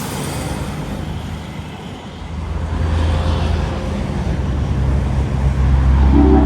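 Highway traffic passing, with a heavy truck's engine hum swelling from about two seconds in and growing louder toward the end as it approaches.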